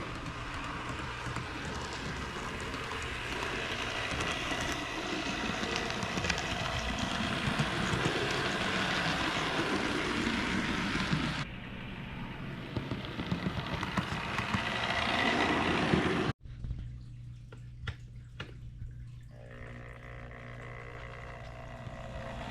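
Bachmann GP40 HO-scale model locomotive running on the track, its small motor and wheels making a steady rushing whir that grows louder. It stops abruptly about 16 seconds in, leaving a lower steady hum, with a faint thin whine in the last few seconds.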